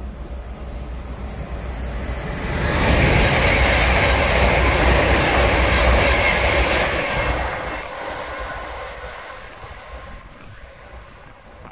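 Passenger train running through the station at speed: a rushing rumble of wheels on rails swells to its loudest about three seconds in, holds for several seconds as the carriages pass, then fades as the train draws away.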